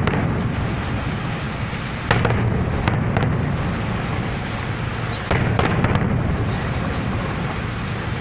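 Fireworks going off: a loud bang about two seconds in and another about five seconds in, each followed by a second of crackling, over a steady low rumble.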